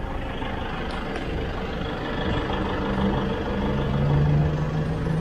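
Car engine idling at a standstill, a steady hum, with a deeper steady drone coming in about halfway through and growing louder.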